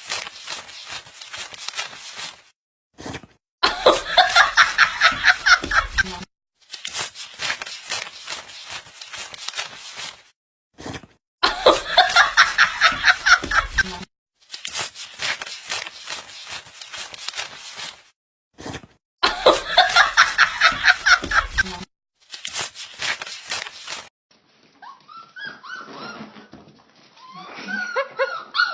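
Husky puppy sounds in short clips that cut off abruptly one after another. A loud clip of fast, rhythmic pulsing recurs three times. Near the end, puppies whine and howl in wavering pitches that rise and fall.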